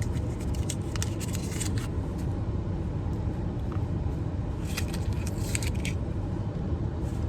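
Crinkling and crackling of a small Hershey chocolate's foil wrapper being unwrapped by hand, in a few short bursts, over a steady low background rumble.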